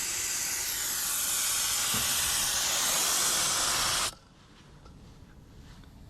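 Air rushing out of a vehicle tire through a valve stem with its core removed, airing the tire down: a loud steady hiss that stops abruptly about four seconds in.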